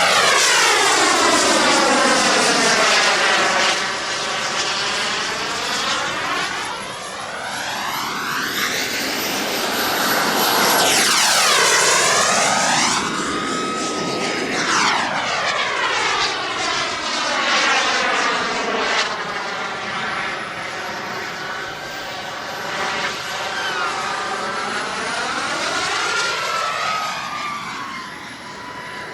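Model jet's turbine engine whining as the plane makes repeated passes in aerobatic flight. The high whine slides up and down in pitch, and the loudness swells and fades as it goes by.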